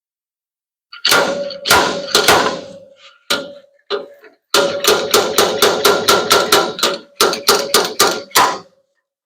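Slide hammer of a stud-welder dent puller striking on studs welded to a steel truck-bed panel, each blow making the panel ring. There are a few separate blows, then a fast run of about three or four blows a second.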